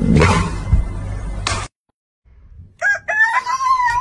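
A rooster crows once, a long call held at a steady pitch, starting near the end after a short silence. Before it, a stretch of noise cuts off suddenly.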